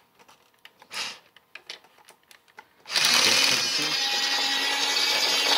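Faint plastic clicks from handling, then about three seconds in the battery-powered motor of a 1987 New Bright Christmas train locomotive switches on and runs with a steady gear whirr, much louder than the handling.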